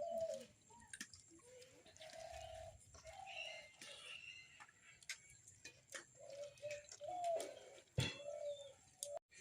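Birds calling: a run of short, low cooing notes repeated every second or so, with higher chirps over them. Light clicks are scattered through, and a sharp click comes about eight seconds in.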